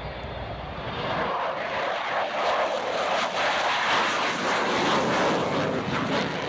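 Airplane flying past, its engine noise swelling from about a second in and easing slightly near the end.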